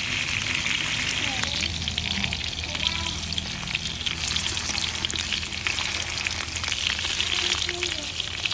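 Beef pieces sizzling and crackling in hot oil in a wok, stirred and turned with a metal spatula.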